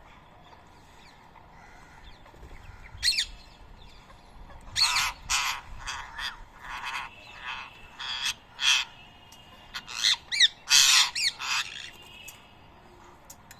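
Rose-ringed parakeets screeching in a squabble: a run of a dozen or so loud, harsh squawks, the first about three seconds in and the rest packed together through the middle, ending about twelve seconds in.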